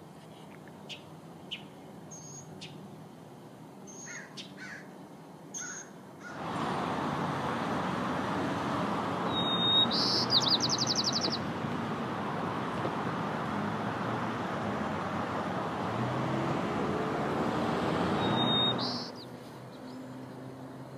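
Wild birds calling with short, high chirps. About six seconds in, a loud steady rushing noise starts and stops suddenly near the end, with a quick trilled call and a single call heard over it.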